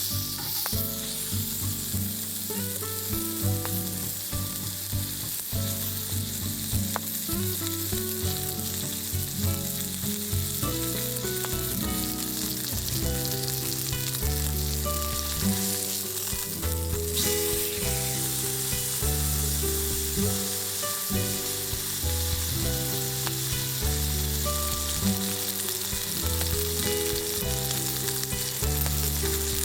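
Meat frying, with a steady sizzle of hot fat, over light background music.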